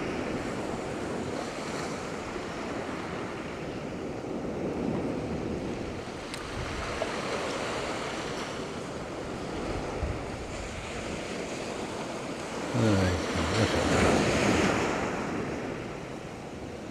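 Small waves breaking and washing up a shingle beach in a strong breeze, with some wind on the microphone. The surf swells loudest about thirteen to fifteen seconds in, where a brief, low, falling voice-like sound is also heard.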